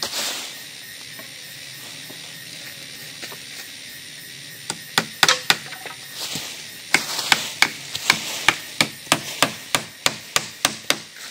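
A tool striking wood with sharp knocks, a few irregular ones at first, then an even run of about three strokes a second.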